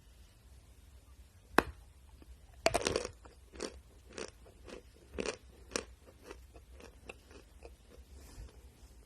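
Natural chalk being bitten and chewed: a sharp snap of the bite about a second and a half in, a loud dense crunch a second later, then chewing crunches about twice a second that grow fainter toward the end.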